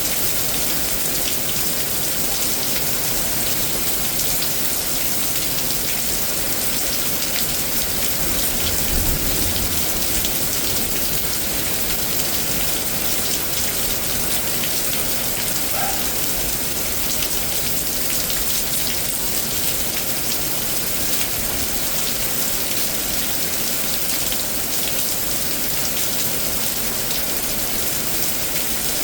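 Heavy rain pouring steadily and pattering on surfaces during a severe thunderstorm, with a brief low rumble about nine seconds in.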